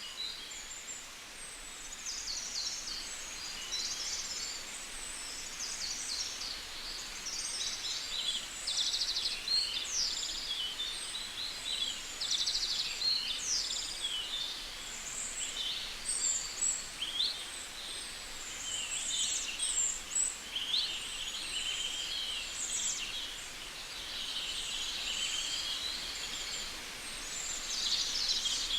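Birds singing and chirping, several at once, with quick trills and short calls over a faint steady hiss.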